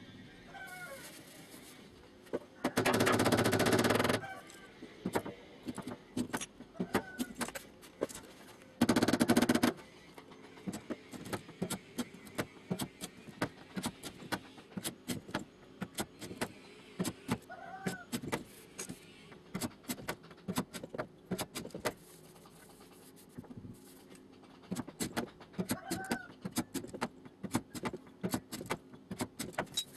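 Quick light taps on a car door's sheet-metal panel during finish panel beating, running on in irregular runs, with two louder stretches of noise about three and nine seconds in.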